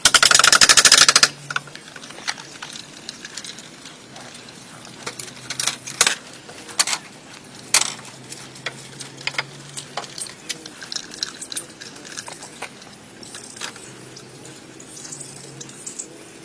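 A loud, rapid rattling burst lasting about a second at the start, then scattered sharp knocks and taps from woodworking.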